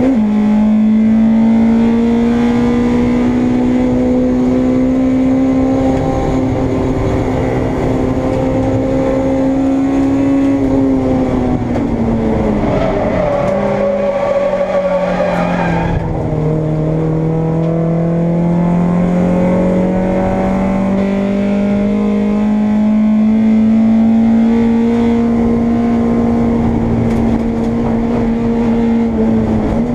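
Onboard sound of a Honda Integra race car's four-cylinder engine under race load. It shifts up right at the start, then the revs climb slowly, fall away around the middle with a brief higher squeal, and climb again through the second half.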